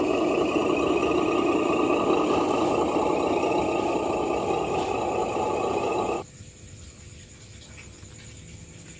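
Pressure washer running and spraying, a steady loud noise that cuts off suddenly about six seconds in, leaving a faint hum.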